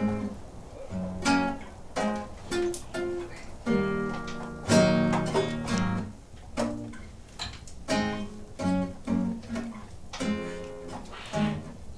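Acoustic guitar music: plucked and strummed chords, each note striking sharply and ringing out.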